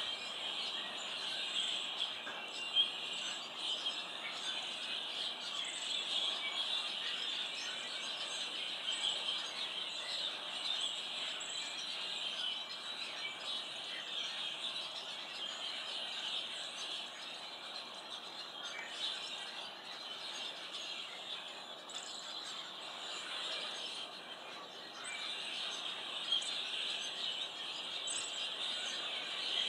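A flock of small songbirds chirping continuously in a dense, overlapping chatter, with a brief click about three seconds in.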